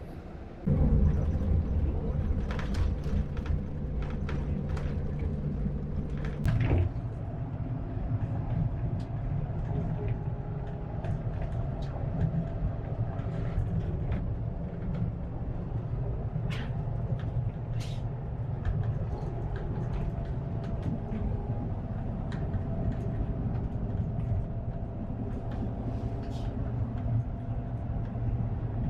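Cabin noise of a double-decker coach on a Scania chassis under way: a steady low engine and road rumble, coming in suddenly just under a second in, with scattered light rattles and clicks and one louder knock about six and a half seconds in.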